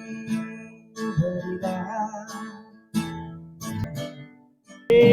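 Acoustic guitar strummed with a voice singing a Nepali song: chords struck near the start, about a second in and about three seconds in, each ringing and fading away. Just before the end, singing and music come in much louder.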